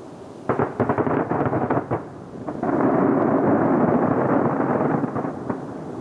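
Starmine fireworks barrage: a quick run of sharp bangs as shells burst in rapid succession, then about two and a half seconds of dense, continuous booming and crackling as many shells burst at once, easing off near the end.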